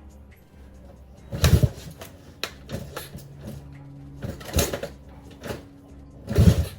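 Cold mini bike single-cylinder engine running rough without its choke, idle set too low, stumbling with three loud bursts and several smaller ones between stretches of low, uneven running.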